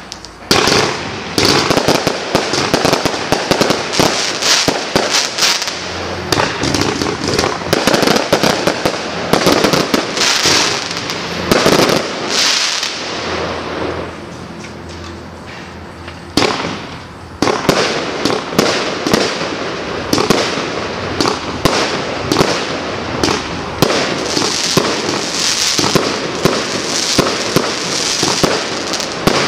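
A 223-shot compound firework cake of 20, 25 and 30 mm tubes firing a rapid, continuous barrage of launches and bursts. Just before halfway the shots thin out into a quieter stretch, then a sudden loud volley starts the barrage again.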